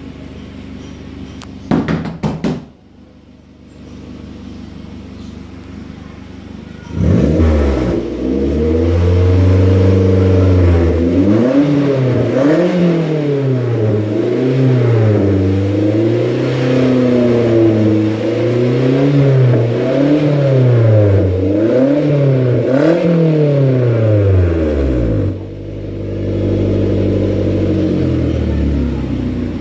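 Car engine breathing through an aftermarket stainless-steel racing exhaust: idling, then from about seven seconds in revved again and again in quick rises and falls, and settling back to idle near the end. A few sharp knocks sound about two seconds in.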